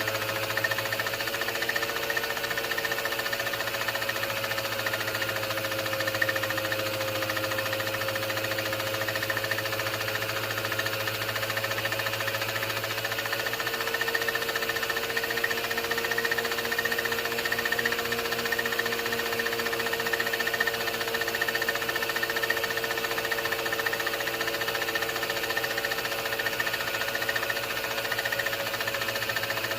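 16mm film projector running: a steady, rapid mechanical clatter with a constant hum, unchanging throughout apart from a low hum that drops out partway through.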